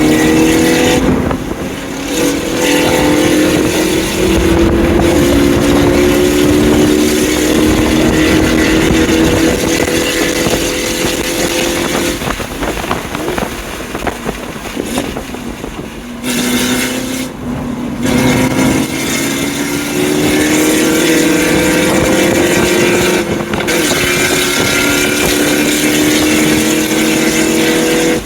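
BMW M2 Competition's twin-turbo inline-six pulling hard at speed, its pitch climbing in long rising sweeps and dropping back a few times as it shifts or lifts off, with wind noise over it.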